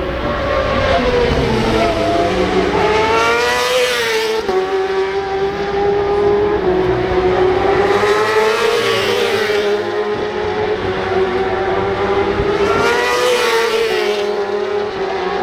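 Racing superbike engines running at high revs. The pitch climbs and then drops sharply three times, the way bikes accelerate and then shift or sweep past.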